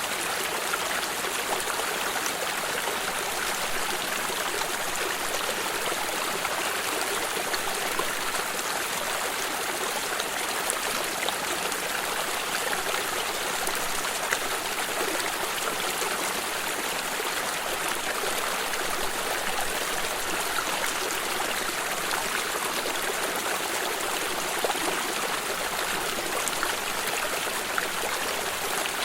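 A flowing stream, water running and trickling steadily with small splashes, unchanging throughout.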